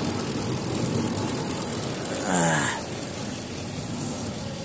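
2015 Range Rover's overhauled 5.0-litre V8 engine running steadily at idle. A short falling voice-like sound comes about halfway through.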